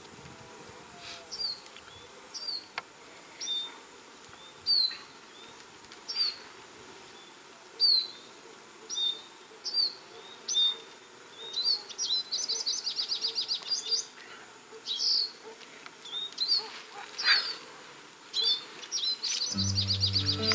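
A songbird calling: short, high, downslurred notes about once a second, breaking into a rapid trill about two-thirds of the way through and again near the end, where background music comes in.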